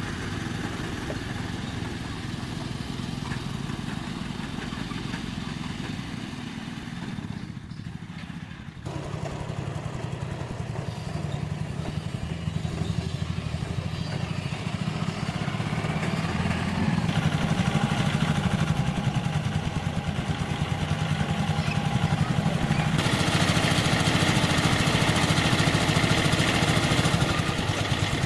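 An engine running steadily. It falls back briefly about eight seconds in, then grows louder and stays loud.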